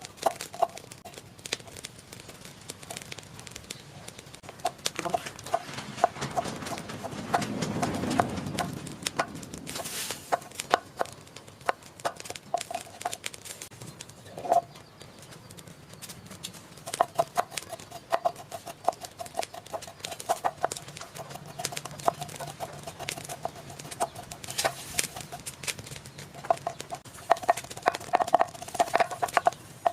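Runs of short, rapidly repeated animal calls, with sharp clicks and knocks scattered among them.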